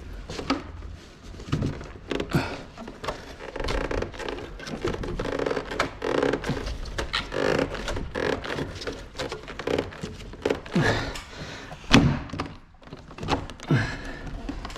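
Repeated thunks, knocks and plastic rubbing and rustling as an air conditioner's indoor unit and its bundled piping are handled and worked onto the wall mounting plate. The sharpest knock comes about twelve seconds in.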